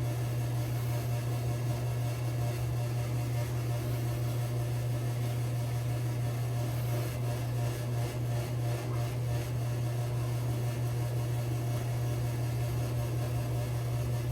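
A steady low hum with faint background noise.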